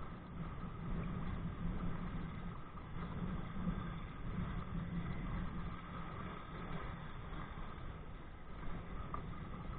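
Steady muffled rush of wind and water buffeting a body-worn camera's microphone as a kite-pulled kayak moves across the water, with a low rumble and no distinct events.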